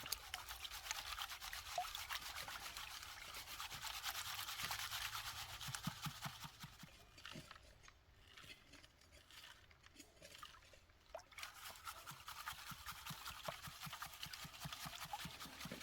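Faint trickling and splashing water with gritty rubbing of sand and gravel as prospecting dirt is worked in water. It eases off for a few seconds midway, then picks up again.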